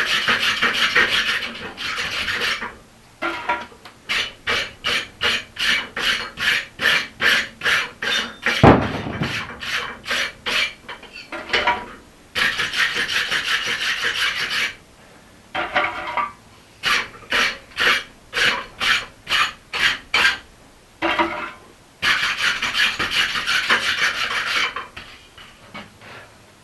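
A hand tool scraping across the steel of a forged axe head, sometimes in long continuous passes and sometimes in quick back-and-forth strokes about two a second. One sharp metallic knock sounds about nine seconds in.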